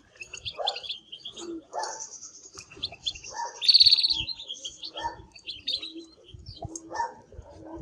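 Spanish Timbrado canary singing: quick twittering phrases and rolling trills, loudest in a rapid trill of fast repeated notes a little past halfway. Lower calls from another bird repeat about once a second underneath.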